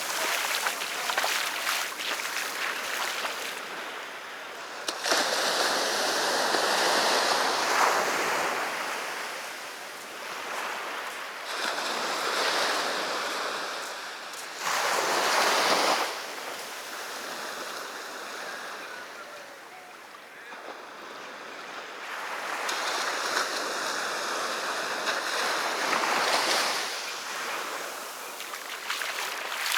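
Sea waves breaking and washing up a beach, the surf rising and falling in a swell every few seconds.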